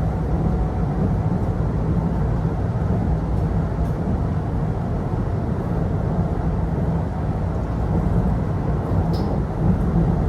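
Kintetsu electric train running at speed, a steady rumble of wheels on rails heard from inside the passenger car, with a faint click about nine seconds in.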